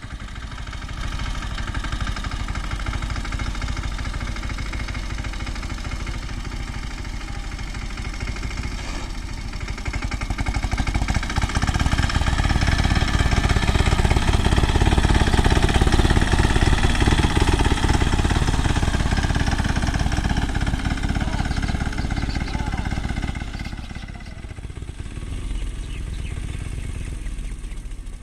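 Swaraj mini tractor's diesel engine running steadily while pulling a cultivator between castor rows. It grows louder about ten seconds in and fades again a little past twenty seconds.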